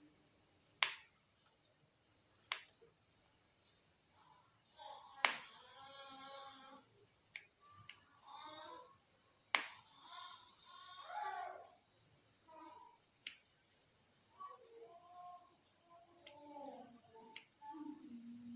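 Steady high-pitched chirping of insects such as crickets in the background, broken by a few sharp clicks, the loudest about five and nine and a half seconds in, from a probe needle working at a TV speaker's wire.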